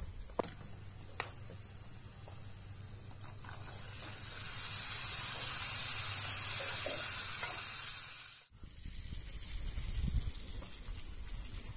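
Diced butternut squash sizzling in hot oil in a frying pan over a wood fire as it is stirred with a wooden spoon. The sizzle starts about three and a half seconds in, is the loudest sound, and cuts off suddenly after about eight seconds. Two sharp clicks come in the first second and a half.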